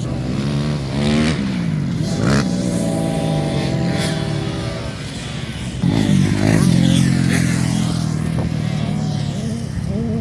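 Dirt bike engines revving past on a practice track, the pitch rising and falling as the riders work the throttle. A second bike comes through louder about six seconds in.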